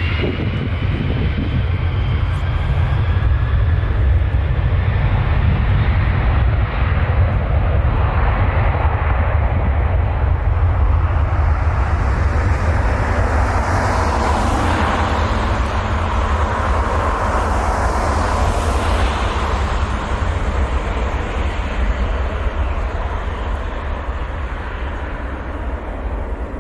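Jet engines of a large airliner passing, a continuous deep rumble. A few falling whines sound near the start, and a broad hissing rush swells around the middle.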